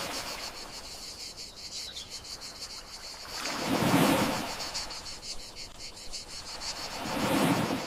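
Gentle sea waves washing in, two swells that build and fade about three and a half seconds apart, over a steady high chirring of crickets.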